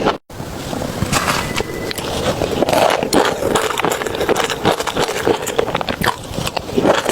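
Close-miked eating sounds: a dense run of wet chewing and mouth clicks, cut by a brief dropout just after the start.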